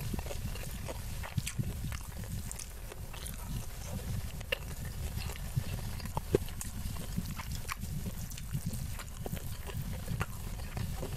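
Close-miked chewing of rice and Padang-style omelette, with frequent small wet mouth clicks and lip smacks over a steady low rumble.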